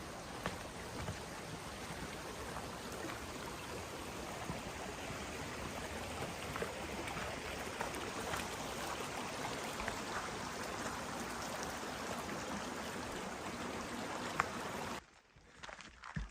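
Running water of a mountain stream, a steady rushing over rocks, with a few faint clicks; it cuts off suddenly near the end.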